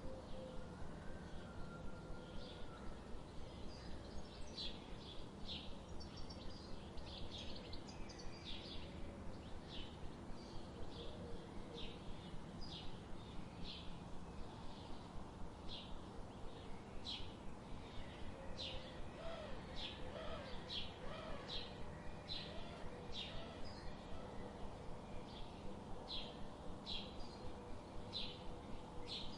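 Songbirds chirping in short high notes, about two a second, over a steady rush of river water.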